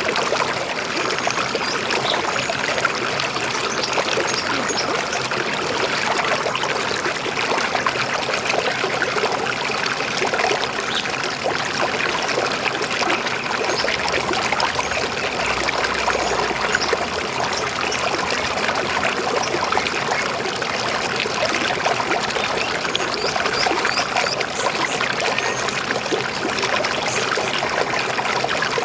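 River water flowing and gurgling steadily, an even rushing babble.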